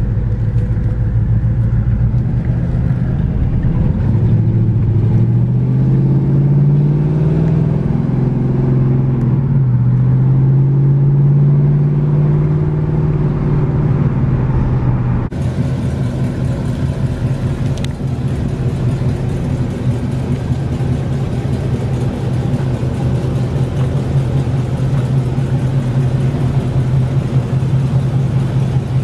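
1986 Monte Carlo SS's V8 engine pulling the car on the road. Its note rises, dips once and climbs again, then holds steady. After a sudden change about halfway through, an engine runs steadily at an unchanging pitch.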